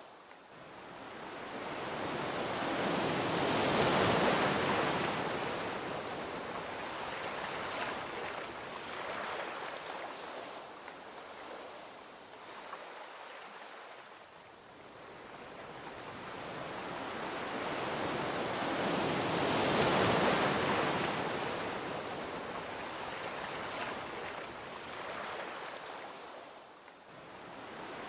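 Gentle ocean waves rolling onto a beach: two waves swell and break, the first peaking about four seconds in and the second about twenty seconds in, each washing back down to a soft hiss before the next.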